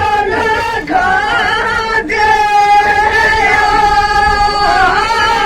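Women singing a rasiya, a Braj folk song, in high voices with long held notes and two brief breaks about a second and two seconds in.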